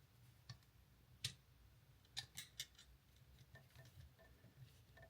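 Faint, scattered small clicks of a screwdriver tightening a terminal screw on an electrical outlet.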